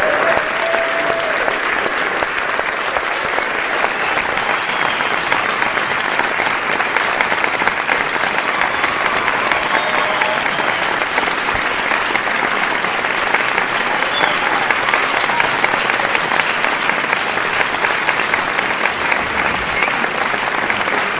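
Large audience applauding steadily: a dense, even clatter of many hands clapping, with a few faint voices in the crowd.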